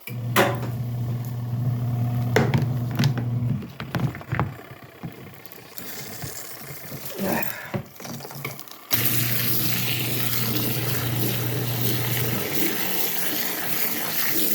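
Kuppet twin tub washer's wash motor humming as it agitates, stopping after about three and a half seconds, followed by a few knocks. About nine seconds in, water starts rushing into the tub and keeps running while the motor hums again for a few seconds.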